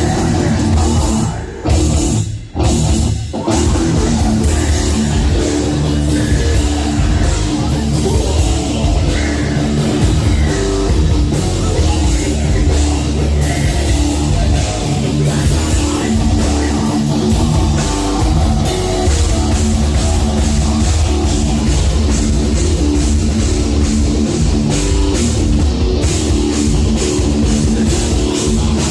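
A heavy metal band playing live, with distorted electric guitars and a drum kit. It opens with a few stop-start hits, then plays on without a break.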